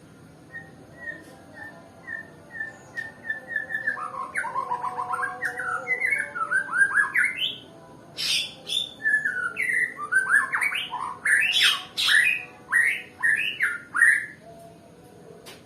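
White-rumped shama (murai batu Nias) singing: a run of short repeated notes that speeds up, then two long phrases of rapid, varied whistled notes with a short break between them.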